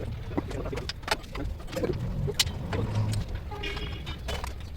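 Scattered sharp clicks and knocks over a steady low rumble, the sharpest knock about halfway through.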